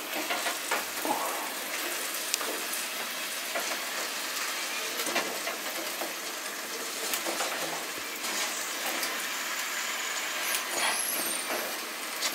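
Masala frying in a clay pot, a steady sizzle as raw chicken pieces are laid into it, with a few light knocks.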